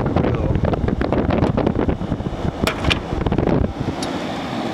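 General Electric 12,000 BTU air conditioner running, with a rumbling wind noise of air buffeting the microphone that eases off about three and a half seconds in, leaving a steadier hum. Two sharp clicks sound a little before that.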